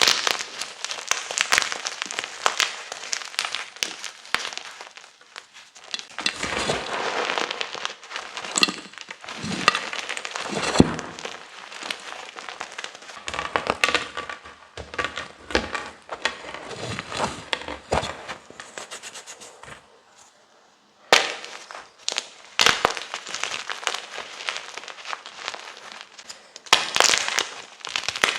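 Chunks of gym chalk being crushed and crumbled, a dense crunching crackle of many small snaps. It stops briefly about three quarters of the way through, then resumes with a sharp crunch.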